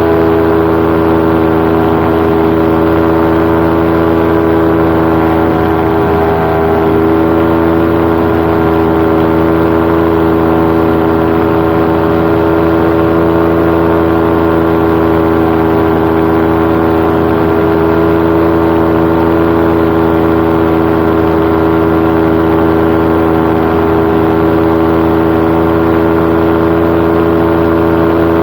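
Paramotor's engine and propeller running steadily in flight at a constant pitch, with a slight shift in tone about six seconds in.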